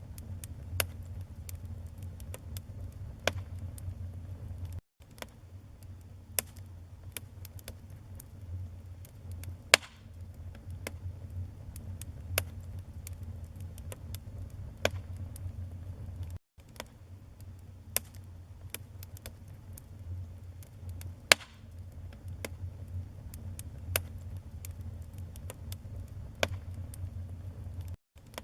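Wood fire burning in a fireplace: a steady low rumble of flame under irregular crackles and sharp pops, a few pops much louder than the rest. The sound drops out for a split second three times.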